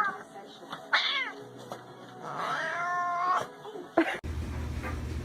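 A cat meowing twice: a short, falling meow about a second in, then a longer meow a second or so later. Near the end the sound cuts off suddenly to a steady low hum.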